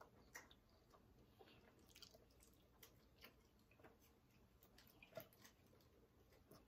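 Near silence: room tone with a few faint clicks from quiet chewing.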